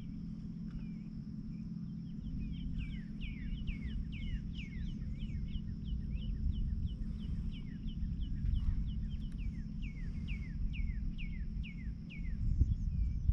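A songbird singing a long series of quick, downward-sliding chirps, about three a second, over a steady low rumble.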